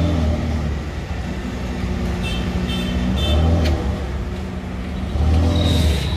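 Ferrari V8 supercar engine at low revs as the car pulls away slowly, its note swelling and falling back twice under light throttle.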